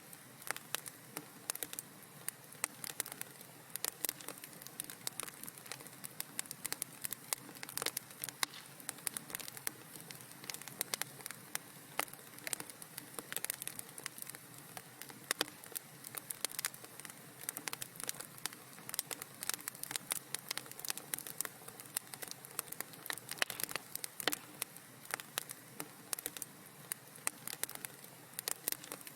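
Wood fire crackling in a fireplace: a dense, irregular run of sharp snaps and pops over a steady soft hiss.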